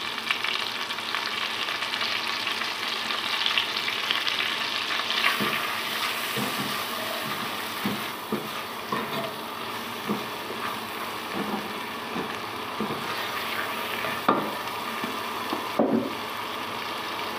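Butter sizzling in a nonstick pot as pounded garlic and green chillies fry in it for a tadka, with a silicone spatula stirring and now and then knocking or scraping against the pan. The hiss is steady throughout.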